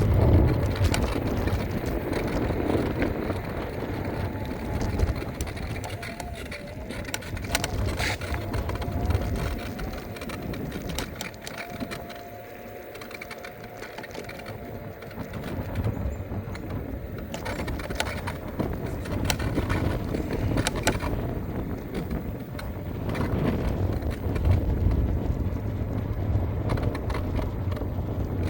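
Ride noise from an electric scooter: wind buffeting the microphone and a low road rumble that eases off for a couple of seconds about halfway, with scattered clicks and a faint steady tone in the first half.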